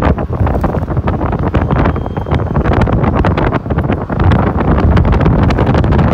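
Heavy wind buffeting the microphone on a moving motorcycle taxi, a loud rumbling rush with constant crackles, over the motorcycle's running noise.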